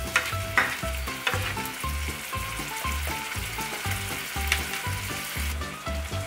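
Ground beef and onion sizzling in a nonstick frying pan, stirred with a plastic spoon that scrapes and taps the pan now and then. A steady low beat of background music runs underneath, about two beats a second.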